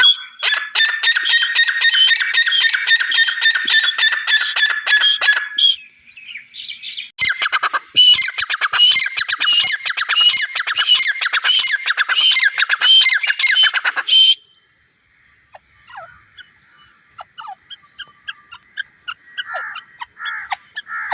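Grey francolin calling: two long, loud bouts of fast repeated notes, each several seconds long with a short pause between, followed by fainter scattered calls.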